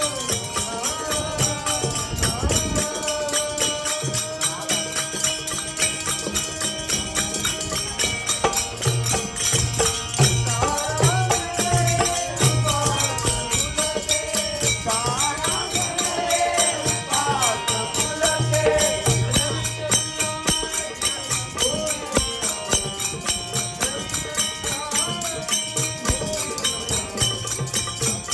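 Devotional Marathi bhajan music: a sung melody with harmonium over a fast, even rhythm of small jingling percussion and a low drum beat.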